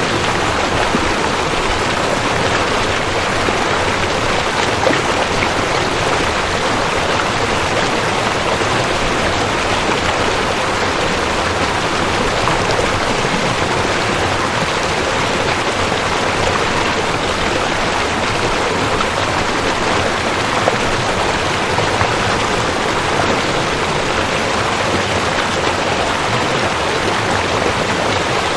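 A rushing creek: water splashing and churning over rocks in a steady, dense rush.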